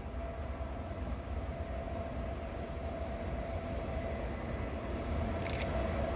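Train approaching along the line, a low rumble growing slowly louder with a faint steady tone over it.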